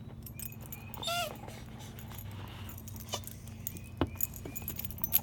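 Pit bull giving one short, high whine about a second in, followed by a few sharp clicks.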